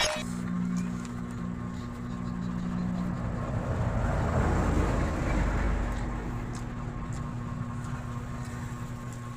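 Steady low motor hum with a rushing noise that swells and fades about four to six seconds in.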